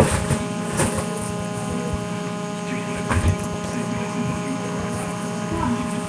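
A steady electrical-sounding hum made of several fixed tones, with a few short knocks at the start, just under a second in and about three seconds in.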